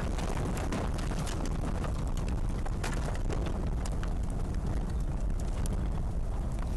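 Tornado wind rushing over a camera microphone: a steady heavy rumble, with many sharp knocks and clicks scattered through it.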